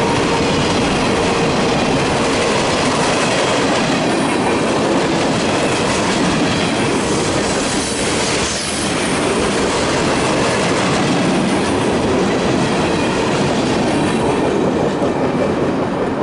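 Freight train cars rolling past at trackside: a steady rumble and clatter of steel wheels on rail, with a brief dip about eight seconds in and easing slightly near the end.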